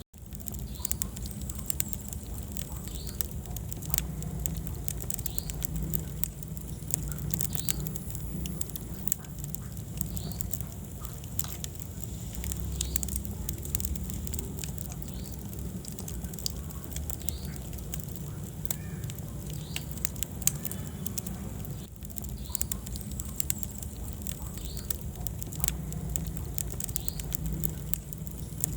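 Wood fire burning in a fireplace: a dense, irregular crackle of sharp pops and snaps over a low steady rumble of flames, with occasional short faint squeaks.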